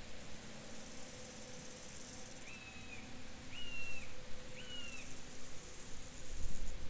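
Field ambience: a steady insect hum and high hiss, with an animal calling three short high notes about a second apart midway through. A low rumble swells near the end.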